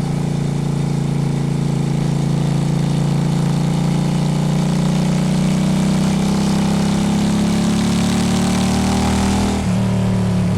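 Honda Shadow motorcycle's V-twin engine running under way, its pitch rising slowly as it pulls. About nine and a half seconds in there is a brief dip, after which the engine runs at a different, steady pitch.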